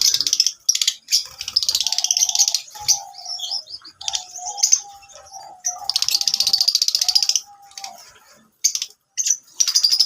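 Lovebirds chirping and chattering: bursts of rapid, high, buzzy calls a second or two long, broken by short pauses, with some lower held notes between them.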